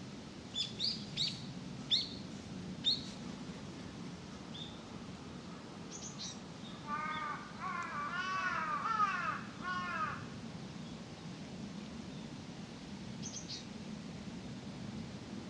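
A crow cawing, a quick run of several calls in the middle, with short high chirps from small birds in the first few seconds, over a steady low background hum.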